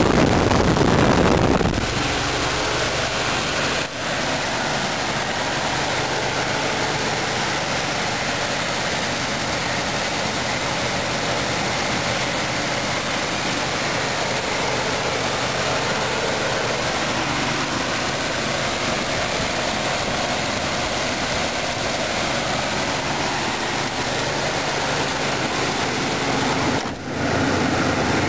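1985 Chevrolet Caprice's small-block V8 idling steadily, a little louder for the first couple of seconds. It runs poorly, which the owner blames on a timing chain that has skipped a notch.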